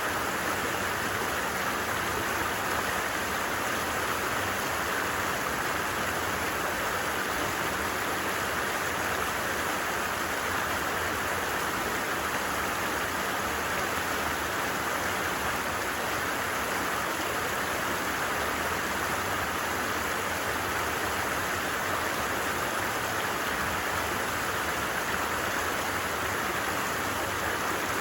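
A stream flowing steadily, an even, unbroken rush of water.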